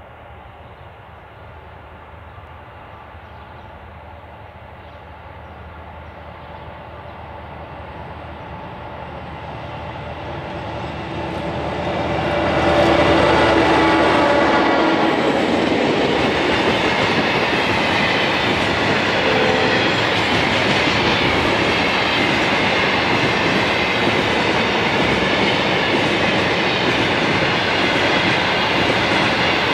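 Container freight train hauled by two Clyde-built EMD diesel-electric locomotives (G and X class), approaching and growing steadily louder. The locomotives' engines pass about twelve seconds in, then the wagons roll by with a steady rumble and wheel clatter.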